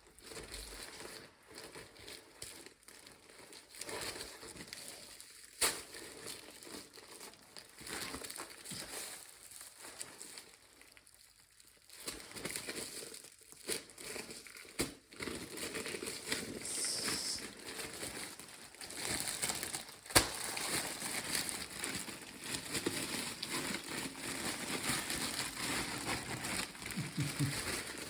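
Irregular crinkling and rustling from kitchen handling, with a few sharp knocks, busier and more continuous in the second half.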